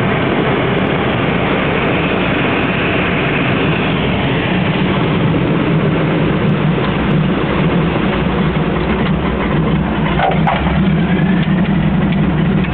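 A 1969 de Havilland Beaver floatplane's Pratt & Whitney R-985 radial engine running steadily at low power with a low drone. It grows a little louder in the second half.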